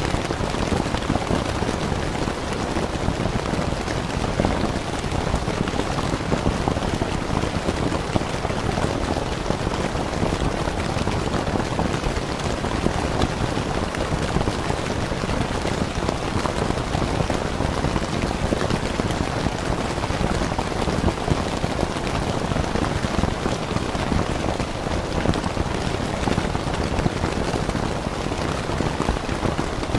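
Steady rain falling on a tent, a dense, even patter of drops that neither builds nor lets up.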